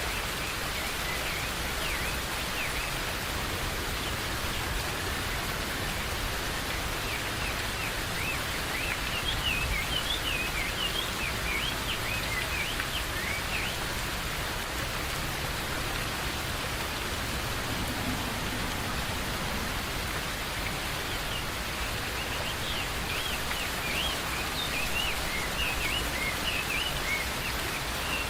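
Steady rain falling, with birds chirping over it in many short rising and falling notes, busiest about ten seconds in and again near the end.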